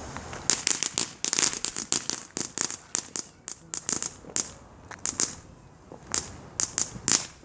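Lit consumer firework crackling: a rapid, irregular string of sharp cracks and pops that starts about half a second in, dense at first and then more spaced out.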